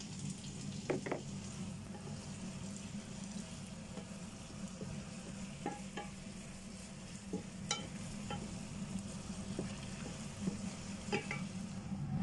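Chicken wings frying in a nonstick pan in their lemon-and-honey sauce, with a steady sizzle. About a dozen short taps and clicks of a utensil against the pan are scattered through it as the wings are stirred.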